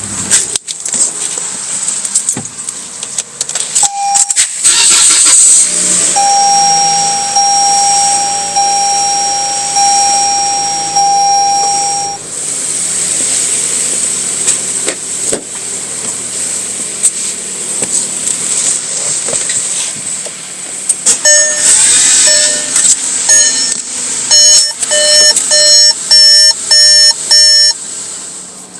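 Electronic warning beeps: a short beep, then a pulsing steady tone for several seconds, and near the end a faster run of sharper repeated beeps, over a steady high hiss.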